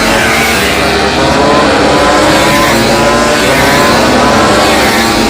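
Loud engine noise with several slowly wavering pitches over a steady rush, heard through a race broadcast.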